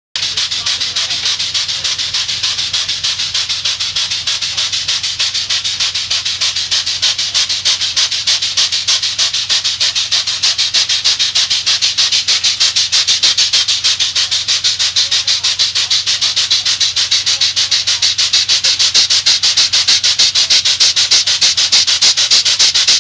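Steam locomotive No. 261's exhaust chuffing in a quick, even rhythm of hissy beats, the sound of the engine working steadily under way.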